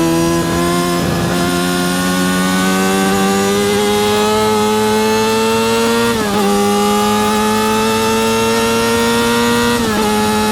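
Yamaha R6 (RJ03) 600cc inline-four engine pulling hard under acceleration, its pitch climbing steadily through a gear. It upshifts about six seconds in and again near the end, the pitch dropping sharply each time before it climbs again.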